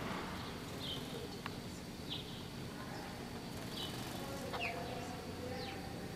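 A small bird chirping: short, high, falling chirps about once a second, over a steady hiss of room noise.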